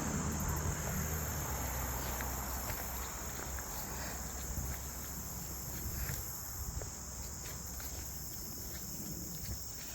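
Steady high-pitched chorus of insects, with faint footsteps of someone walking along a trail.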